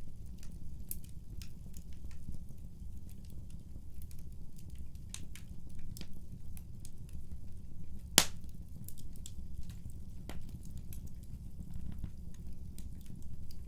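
Wood fire crackling in a fireplace: a steady low rumble of burning with scattered small crackles, and one loud sharp pop about eight seconds in.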